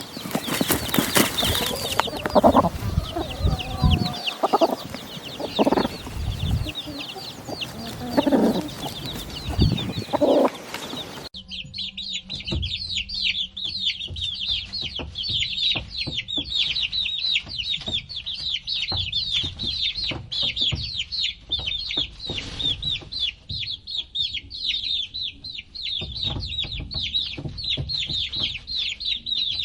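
Chickens calling and clucking. About a third of the way in the sound changes abruptly to a dense, unbroken chorus of rapid high peeping, typical of chicks.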